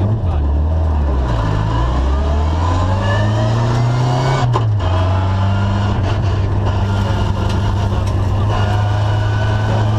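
Ford Escort RS2000 rally car's four-cylinder engine heard from inside the cabin at full pace on a gravel stage: the revs climb for a few seconds, drop at a gear change about four and a half seconds in, then hold high. Gravel noise from the tyres runs underneath.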